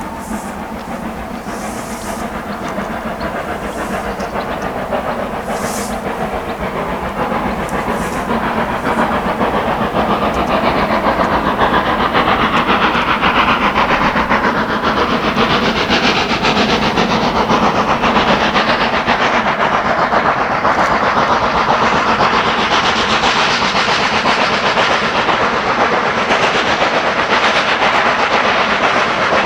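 A steam-hauled train running past close by: a dense rush of steam and rolling-stock noise that grows louder over the first ten seconds or so, then holds steady.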